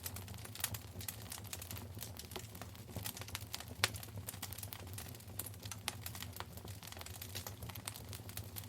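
Wood fire crackling in a fireplace: a steady stream of small irregular snaps and ticks, with a sharper pop about 0.6 s in and a louder one near 4 s, over a low steady rumble.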